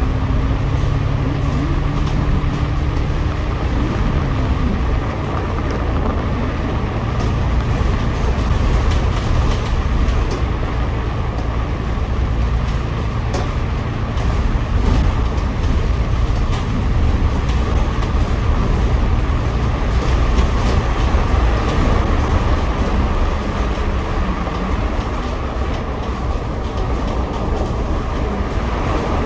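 Cabin noise on the upper deck of a double-decker bus in motion: a steady low rumble of engine and tyres, with a faint engine tone in the first few seconds and scattered light ticks and rattles.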